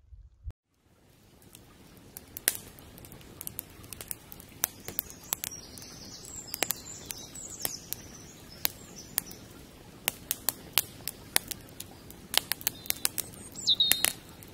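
Wood fire crackling in a fireplace: irregular sharp pops over a faint hiss, more of them near the end, with a few faint high squeals.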